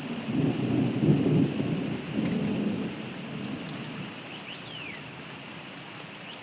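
Thunder rumbling for the first three seconds or so and then dying away, over steady rain. A few faint high chirps come near the end.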